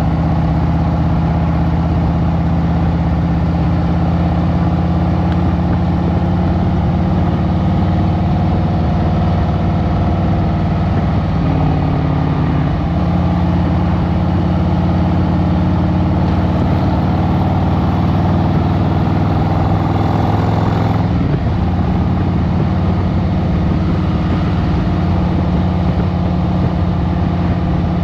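Harley-Davidson Road Glide Special's Milwaukee-Eight 114 V-twin running steadily, with small shifts in engine speed near the middle and again about three-quarters of the way through.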